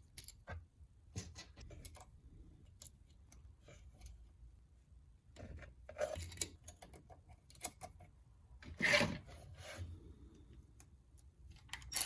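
Small metal winch parts being handled and fitted back on: scattered light clicks and rubbing, with a brief louder scrape about nine seconds in.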